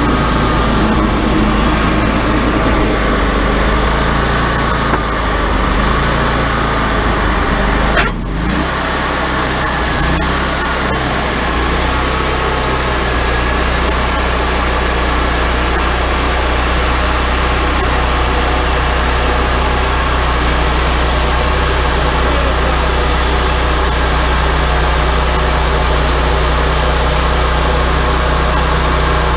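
Wood-Mizer LT40 hydraulic portable sawmill running steadily. There is a short break in the sound about eight seconds in.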